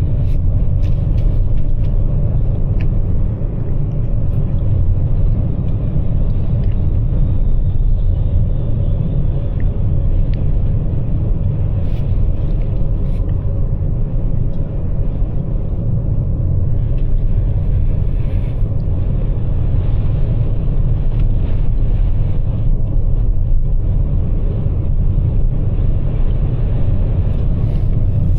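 Steady in-cabin road noise of a Toyota RAV4 Prime driving on wet, slushy highway pavement on Blizzak snow tires: a low rumble of tyres with a hiss of wind and spray over it.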